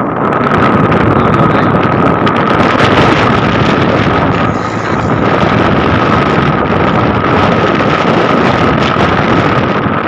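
A vehicle driving through floodwater: a loud, steady rush of water and wind buffeting the microphone, with a steady whine over it.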